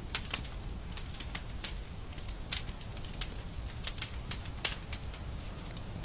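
Fire in a fireplace crackling, with irregular sharp pops a few times a second over a low, steady rumble.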